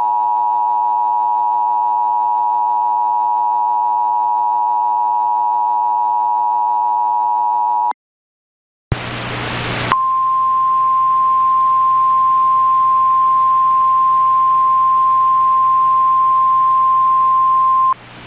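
Emergency alert tones from a mock Emergency Alert System broadcast. First a harsh, buzzing alarm tone holds steady for about eight seconds. After a moment of silence comes a burst of static, then a single steady pure tone over hiss for about eight seconds, which cuts off near the end.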